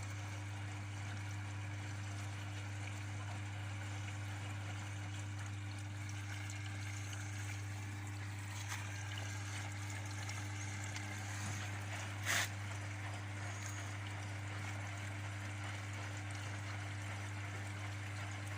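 Washing machine running mid-cycle: a steady hum with water flowing through it, and one short click a little past halfway.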